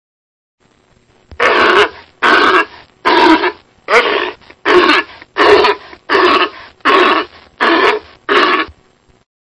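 A sea animal calling in a series of ten short, harsh barking calls, evenly spaced at a little over one a second, starting about a second in.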